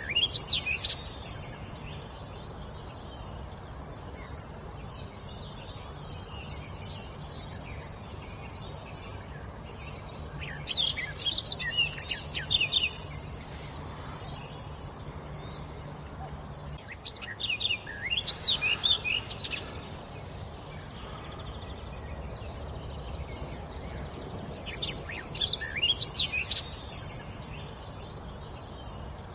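A songbird singing short phrases of quick, high, sliding notes, four phrases a few seconds apart, over a steady low background rumble.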